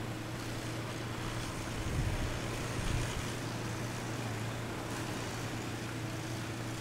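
A steady low motor hum, with two brief low thumps about two and three seconds in.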